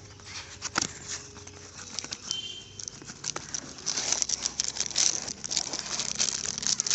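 Packaging being handled: dense crinkling and many small clicks, getting busier and louder about four seconds in.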